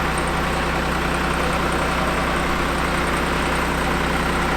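A heavy construction machine's diesel engine running steadily at a constant speed.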